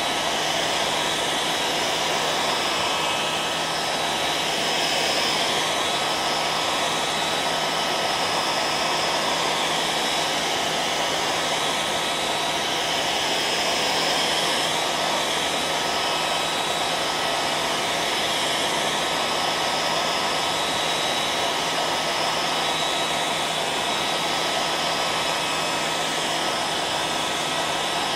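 Hair dryer running steadily: a constant blowing hiss with a low motor hum and a thin steady whine.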